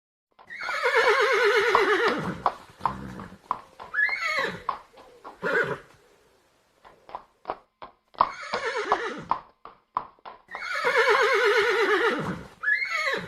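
A horse whinnying: three long, loud calls with a quavering pitch and several shorter calls between them. There are runs of sharp knocks between the calls, about one second in from the middle and again near the end.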